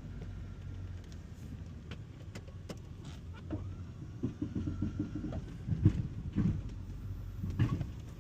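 Snowplow vehicle's engine running steadily, with a series of short thumps and knocks in the second half; the loudest come about six seconds in and near the end.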